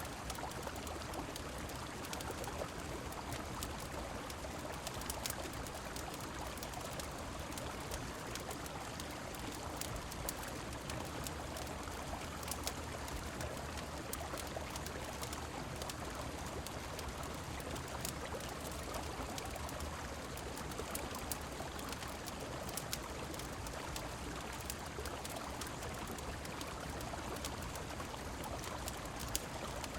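Steady rushing of a river mixed with rain, with scattered sharp crackles of a wood fire on top.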